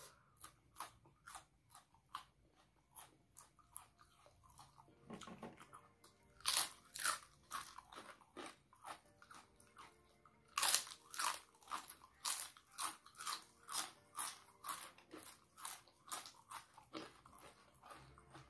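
Close-up mouth sounds of eating raw red chilies and crisp fried crackers: quiet chewing at first, then two loud crisp bites about six and a half and eleven seconds in, followed by a quick, steady run of crunchy chewing.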